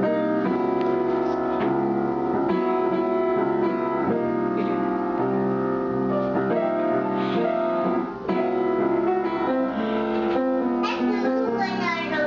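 Keyboard instrument playing sustained chords in an instrumental passage, the chords changing every second or so.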